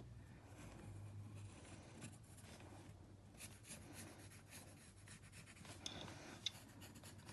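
Faint scratching of drawing strokes on paper.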